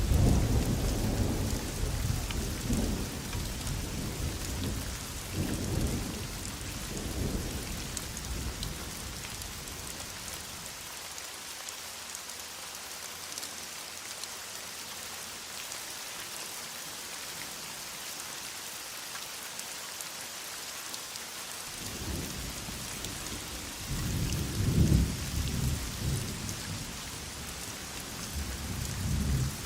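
Heavy rain falling steadily, with rolling thunder rumbling for the first several seconds and again near the end.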